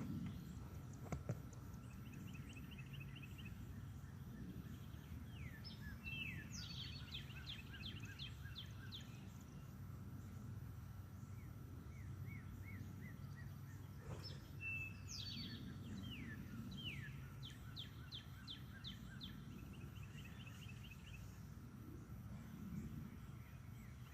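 Songbirds singing faintly: quick high chirps and trills, with two fuller song phrases about five and fourteen seconds in, over a low steady rumble of outdoor background noise.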